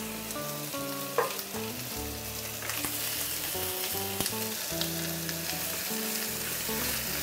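Chicken pieces sizzling as they fry in hot oil in an enamelled pan, stirred with a wooden spatula, with a light knock about four seconds in.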